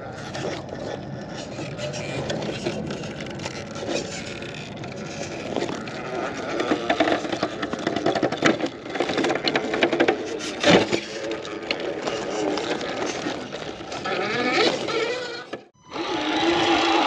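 Electric motor and drivetrain of a 1/10-scale RC rock crawler whining as it crawls over rocks, the pitch rising and falling with the throttle, with scattered clicks of tyres and chassis on stone. The sound cuts out briefly near the end.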